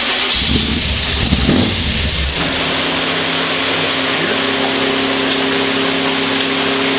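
Freshly built 383 small-block V8 in a Z28 Camaro, on its first run after the build, revved once, the engine note rising and falling over about two seconds, then settling back to a steady idle.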